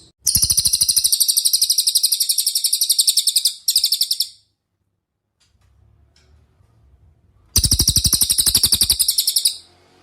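Cililin song: a loud, high-pitched, very fast trill of rapidly repeated notes that lasts about four seconds, with a tiny break near its end. After a pause a second, shorter trill of about two seconds follows.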